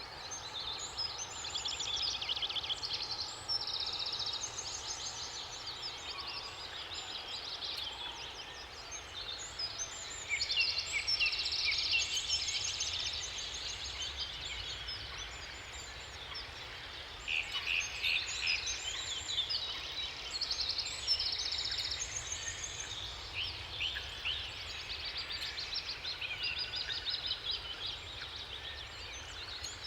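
A chorus of several songbirds singing at once: many short, overlapping chirps, trills and warbled phrases, over a steady low background noise.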